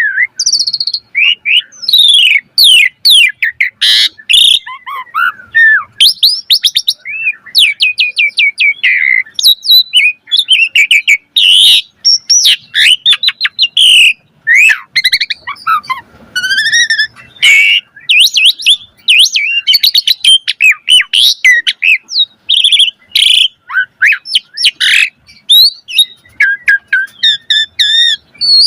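Asian pied starling (jalak suren) singing a continuous, varied song: sliding whistles, harsh notes and fast runs of repeated notes and trills, following one another with only short pauses.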